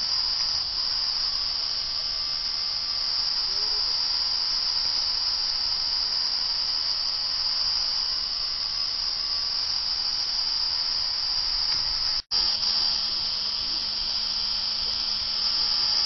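Steady high-pitched drone of a chorus of insects, unbroken except for a sudden dropout about twelve seconds in; after the dropout a low steady hum runs underneath.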